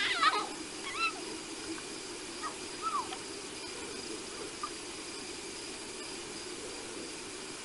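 A night bird gives a series of short whistled calls that slide up and down in pitch, loudest in the first second and fading to single faint notes after about four seconds, over a steady background hum.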